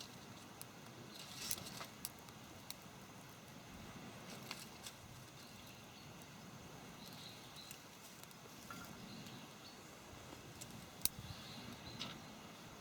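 Campfire crackling: scattered sharp pops and clicks, a louder one about a second and a half in and another near the end, over a faint steady low rush.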